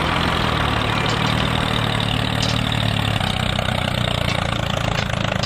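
A small engine idling steadily.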